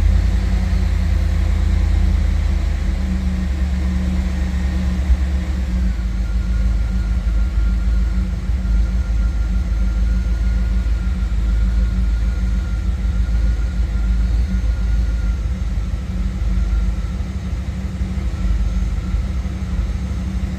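LT1 V8 engine idling steadily after a cold start, a good-running idle. A faint steady whine sits above the low rumble from about six seconds in.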